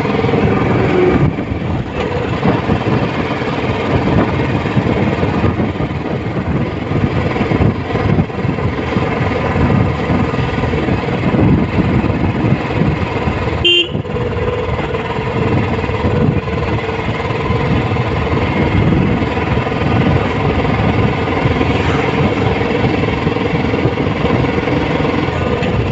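Royal Enfield Classic 350's single-cylinder engine running while the motorcycle is ridden, steady throughout, with one brief break in the sound about fourteen seconds in.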